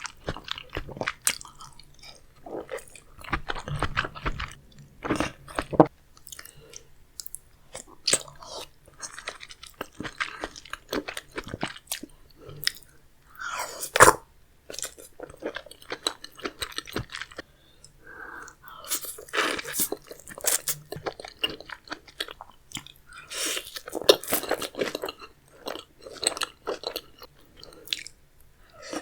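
Close-up eating sounds of a person chewing and crunching seafood-boil food, in irregular bites and smacks, with one sharp, loud click about halfway through.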